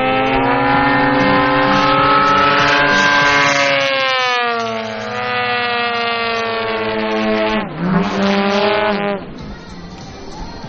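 Engines of two Krill Extra 330SC radio-controlled aerobatic model planes flying a formation pass. Their pitch climbs and then falls away as they swing past. They grow quieter near the end.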